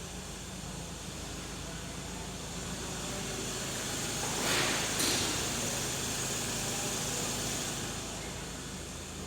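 Mazda BT-50 2.2-litre four-cylinder turbo-diesel engine running steadily, with a constant hiss over a low hum and a louder rushing surge about halfway through.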